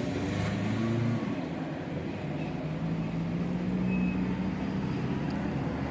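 A motor engine running steadily with a low hum that steps up in pitch about halfway through.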